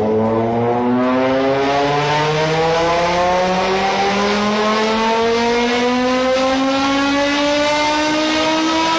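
A performance car's engine and exhaust under hard acceleration, the pitch climbing steadily through one long gear without a shift.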